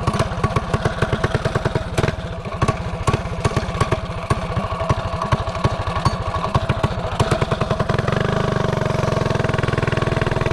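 Mini bike's small engine idling with an uneven beat of separate firing pulses, then about eight seconds in it picks up to a faster, steadier run.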